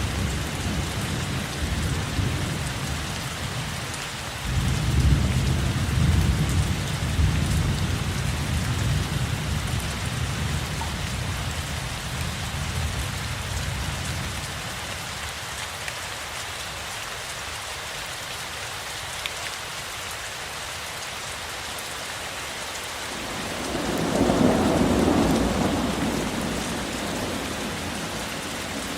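Steady heavy rain falling, with thunder rumbling low: one rumble at the start, a second, louder one from about four seconds in that fades out over the next ten seconds, and another swell of thunder near the end.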